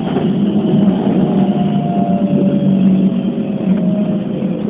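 Keikyu New 1000 series electric train running, heard from inside the front car: a steady rumble with a thin motor whine that slowly falls in pitch.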